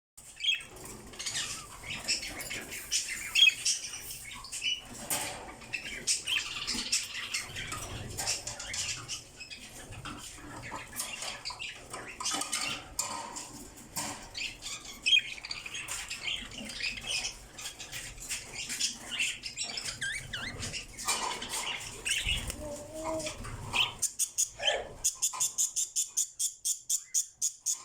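Lovebirds chattering and squawking in a busy, irregular stream of high chirps, mixed with sharp clicks and flutters. Near the end an even series of high-pitched pulses sets in, about three a second.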